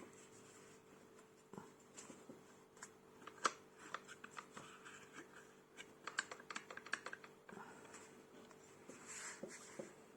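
Faint, irregular clicks and taps of a Bosch angle grinder being handled, its plastic and metal parts knocking; the grinder is not running.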